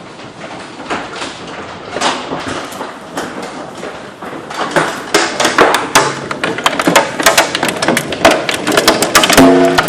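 Hailstones pelting hard surfaces: scattered hits at first, building about halfway through into a dense, louder clatter.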